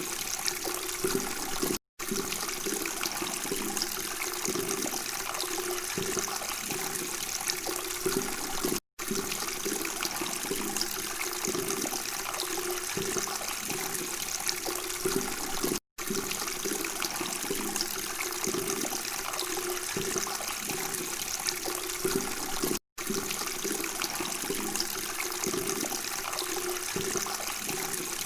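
Steady flowing, trickling water, a continuous murmur that cuts out completely for an instant about every seven seconds.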